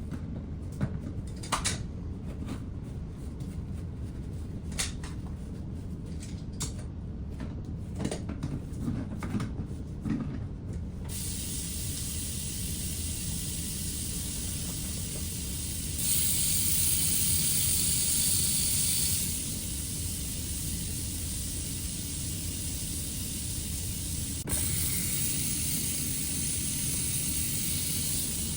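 A few clunks and knocks, then water starts running from a faucet about eleven seconds in: a steady hiss that gets louder twice as the flow is turned up. This is the test run of water through the freshly cleared drain.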